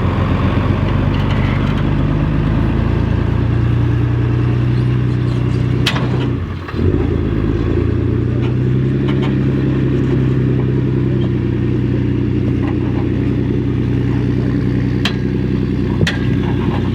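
A truck engine runs steadily under load while climbing a hill. About six seconds in the engine note drops briefly, then picks back up, and a few sharp clicks or knocks come through.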